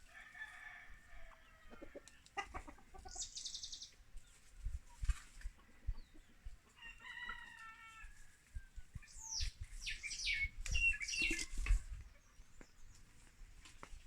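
Farmyard chickens: a rooster crowing, with clucking and sharp high bird calls that are loudest about two thirds of the way in.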